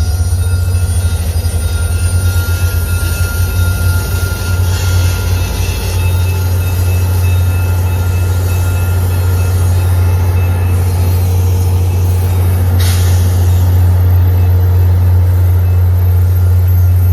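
Train passing with a loud low rumble and thin, steady squealing tones from its wheels; a hiss sets in about thirteen seconds in.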